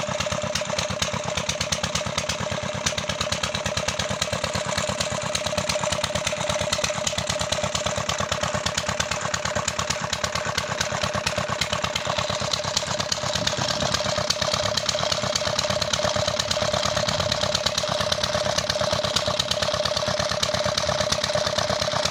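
An engine running steadily at an even speed, with a fast regular firing beat and a steady hum over it.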